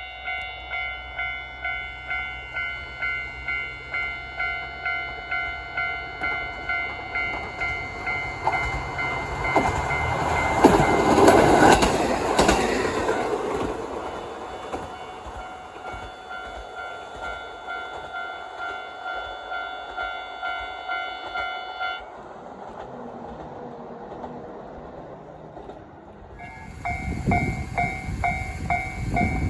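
Railway level-crossing warning bell ringing in a steady, rapid beat while a train passes loudly, loudest about ten to thirteen seconds in. The bell stops a little over twenty seconds in, then starts ringing again near the end.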